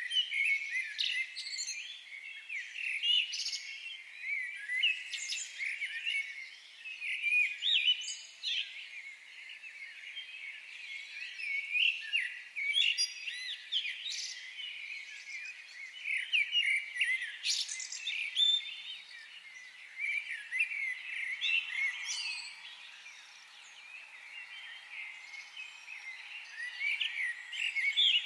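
Many birds chirping and trilling together in a forest, a dense, overlapping chorus of short high calls that swells and fades in bursts every few seconds.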